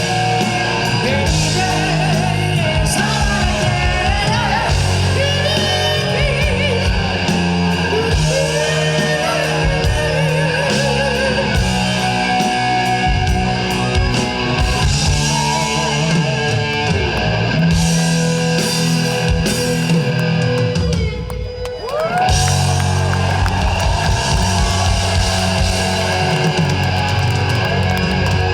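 Live rock band playing loud rock, led by electric guitar, with a short drop in level about three quarters of the way through.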